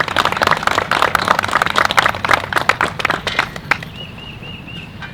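A crowd applauding, with many hands clapping; the clapping thins out and stops a little under four seconds in. Near the end there is a short run of four high chirps.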